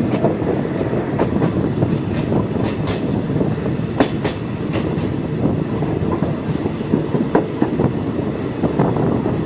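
State Railway of Thailand passenger train heard from a carriage as it runs along the track: a steady rumble with scattered sharp clicks and knocks from the wheels on the rails.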